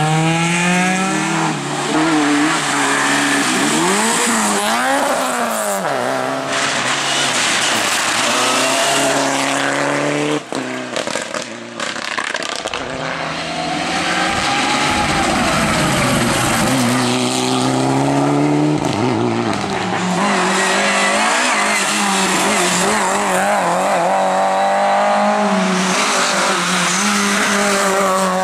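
Rally cars at full power on a stage: engines revving hard, pitch climbing and dropping through gear changes and lifts, with tyre squeal, in several short clips one after another.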